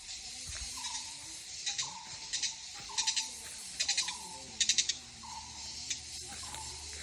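Forest wildlife chorus: a steady high insect drone, five bursts of rapid pulsed trills in the middle, and a short falling call repeated about once a second.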